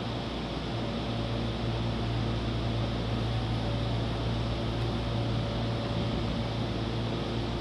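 Hankyu 9000 series electric train at the platform, giving a steady hum and hiss with a low drone and a few faint steady tones. The pitch neither rises nor falls, so the train has not yet begun to pull away.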